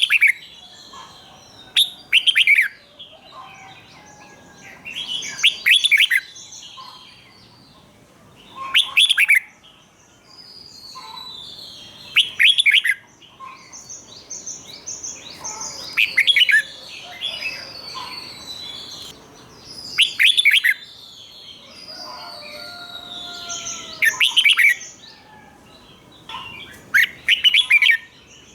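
Red-whiskered bulbul singing its doubled song: short, loud phrases of quick high notes repeated about every three to four seconds, with fainter chirps between them.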